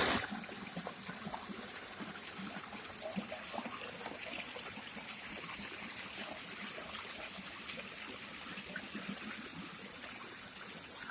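Water trickling steadily, after a brief loud rush of noise right at the start.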